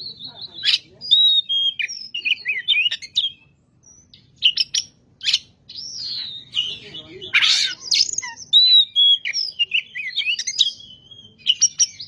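Oriental magpie-robin singing a loud, varied song of whistles, gliding notes and sharp chips, with a short pause about four seconds in and a harsh burst about halfway through.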